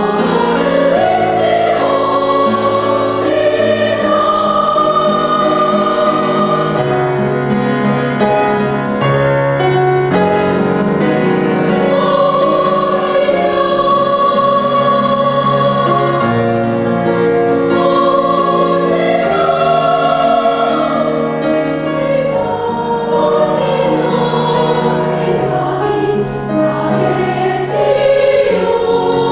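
A mixed amateur choir singing with piano accompaniment, voices holding long notes in harmony and moving together from chord to chord.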